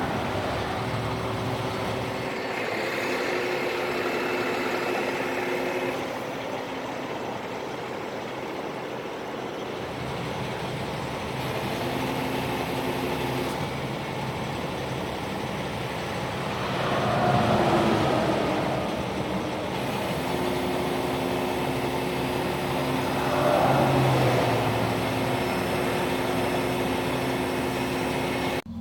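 Truck engine idling with a steady hum, with two louder swells of vehicle noise, near the middle and about three quarters of the way through.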